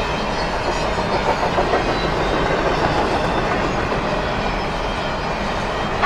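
Train rolling past, a steady rumble of wheels on the rails with irregular clicks about a second or two in.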